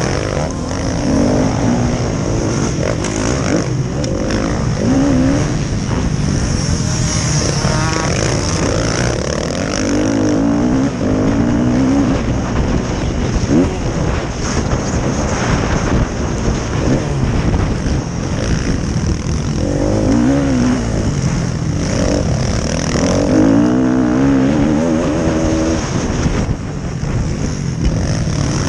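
Motocross bikes racing, their engines revving up and down again and again, loud and continuous.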